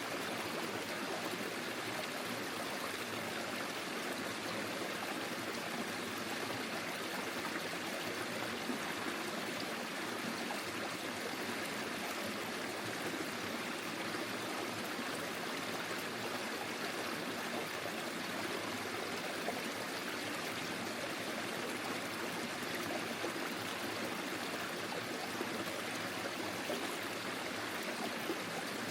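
Small forest stream flowing steadily over its bed, a continuous even rush of water.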